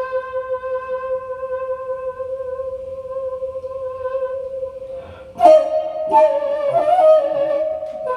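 Daegeum, the Korean large bamboo transverse flute, played in a slow improvisation and heard as a recording over a hi-fi system: one long held note with a slight waver, then about five seconds in a sharp, louder attack with quick bends in pitch before it settles back onto the held note.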